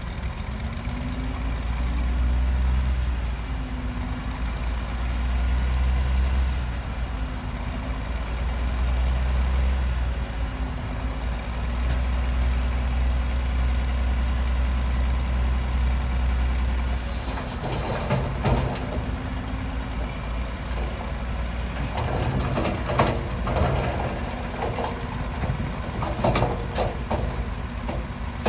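Heavy diesel engine of earthmoving machinery running, its deep rumble swelling and easing several times under changing load. From about two-thirds of the way in, repeated sharp metallic clanks and knocks sound over the engine.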